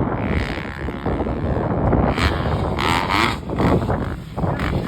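Wind buffeting the microphone over the running noise of a vehicle on the move, a dense low rumble with a few short knocks.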